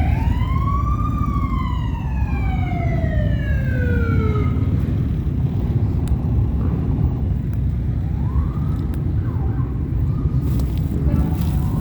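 An emergency-vehicle siren sweeps up for about a second, then winds down steadily over the next three seconds, followed by a few short whoops. A steady low rumble runs underneath.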